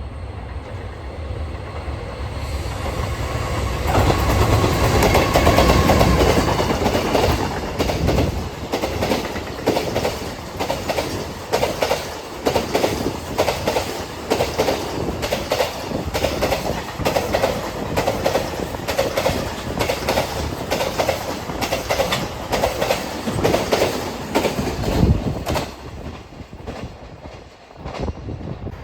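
Freight train passing close by: the locomotive's approach builds to its loudest a few seconds in, then a long string of wagons follows with a rapid clickety-clack of wheels over the rail joints, dying away near the end.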